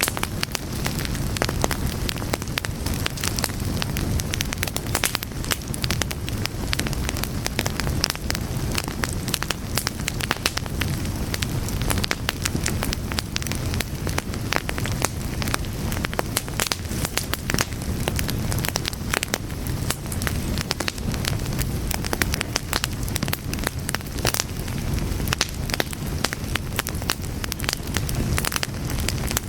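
Fire crackling steadily: many irregular pops and snaps over a low rumble of burning flames.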